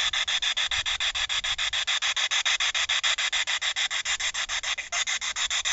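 Ghost-hunting spirit box sweeping through radio stations, giving a steady stream of choppy static that pulses about ten times a second.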